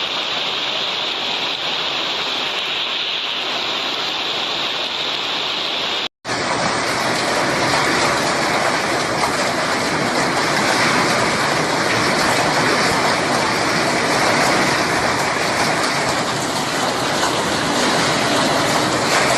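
Heavy hail pelting down in a hailstorm, a dense steady hiss of many impacts. About 6 s in it cuts off for a moment, then comes back louder in a second stretch of footage.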